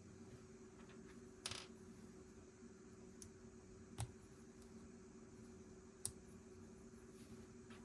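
Plastic Lego pieces clicking and tapping against each other, with a short rattle of pieces about a second and a half in and single sharp clicks about 4 and 6 seconds in, over a faint steady hum.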